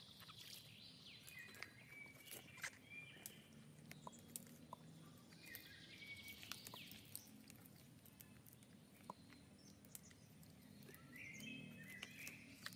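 Faint outdoor quiet with birds chirping in several short bouts of high, downward-gliding calls. Scattered small clicks and light knocks run through it.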